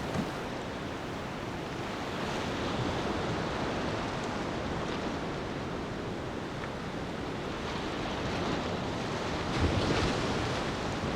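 Beach ambience of waves washing onto the shore in slow swells, one wave breaking louder near the end.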